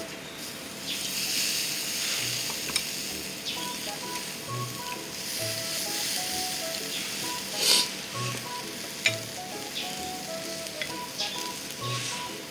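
Slices of beef tongue sizzling on a grill over a fire pit, the hiss swelling and easing, with a few sharp pops. Background music plays along.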